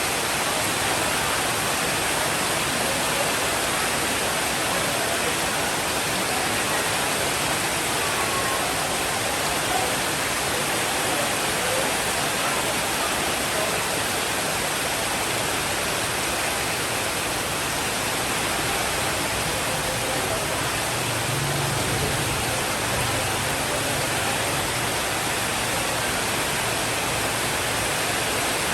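Steady, dense rainfall hiss with no breaks, with a faint low rumble for several seconds about two-thirds of the way through.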